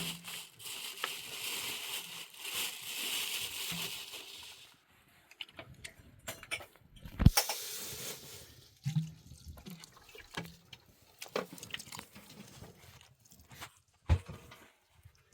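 Water pouring for the first few seconds, then scattered knocks and clatter of objects being handled, with one loud thump about seven seconds in and another near the end.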